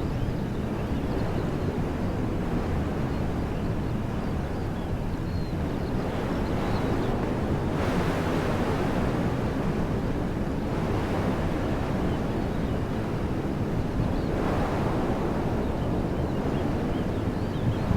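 Wind blowing through trees, a steady rushing that swells in a gust about eight seconds in and again near the end, with low rumbling wind buffeting on the microphone.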